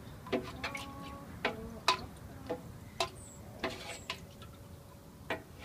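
About nine irregular sharp knocks and clinks over a few seconds, several of them leaving a brief ringing tone, as of something hard striking a resonant object.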